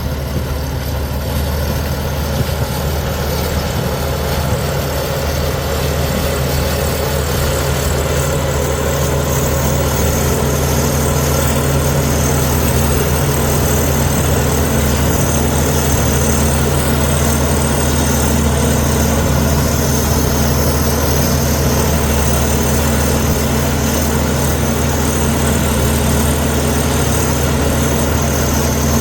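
Heavy diesel engine of earthmoving machinery running steadily at a constant, low, even drone, with no sudden changes.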